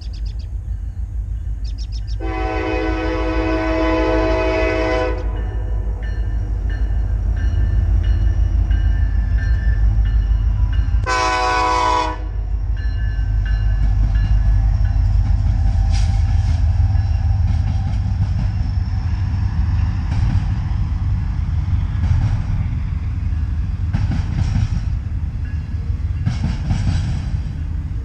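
Norfolk Southern double-stack freight train passing close with a steady, loud rumble of wheels and cars. A diesel locomotive horn sounds twice: a long blast of about three seconds a couple of seconds in, then a short one about eleven seconds in. Scattered clicks of the wheels over the rails come in the second half.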